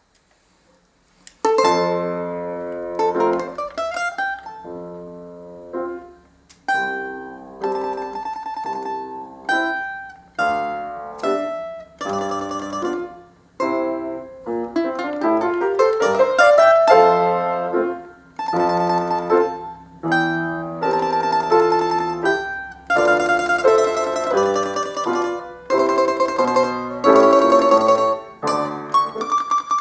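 A solo plucked string instrument playing a lively folk-dance tune over a sustained lower accompaniment, starting about a second and a half in, with quick upward slides twice.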